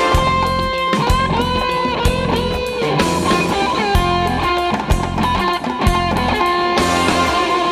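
Jazz-fusion instrumental: a lead electric guitar playing sustained, bending melody notes over bass guitar and a drum kit keeping a steady beat.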